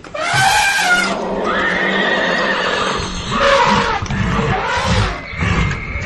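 Horse whinnying, several loud calls in a row: a bending call at the start, then a longer held one, then rougher calls.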